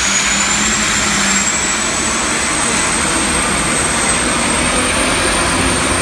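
Diesel pulling truck running hard under full load, pulling the sled. The engine noise holds loud and steady, with a high turbo whine that climbs slowly in pitch.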